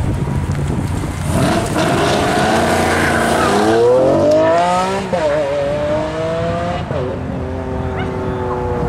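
Sports car engines accelerating hard. The revs climb steeply, drop sharply about five seconds in as at a gear change, then the engine note pulls on steadily.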